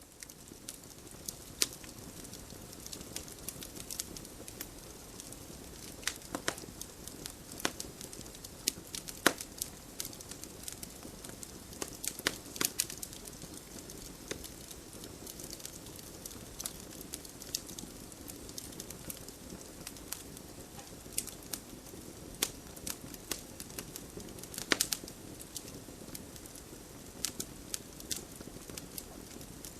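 Campfire crackling: irregular sharp pops and snaps, several a second at times, over a steady low hiss of burning wood.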